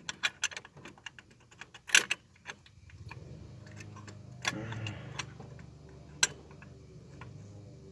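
Small metal parts and hand tools clinking against each other: a quick run of light clicks and taps with a louder clank about two seconds in, then a faint low hum with a single sharp click near the end. It is the hardware of a turbo wastegate actuator being handled for mounting.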